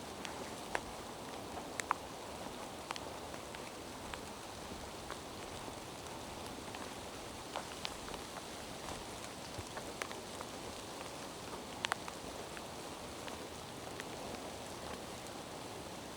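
Steady rain falling through forest, an even hiss, with scattered sharp ticks of single drops landing close by, the clearest about two seconds in and near twelve seconds.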